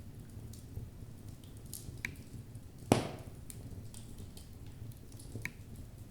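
Wood logs burning in a fireplace: a low steady rumble of the flames with scattered small crackles and a few sharper pops, and one loud crack about three seconds in.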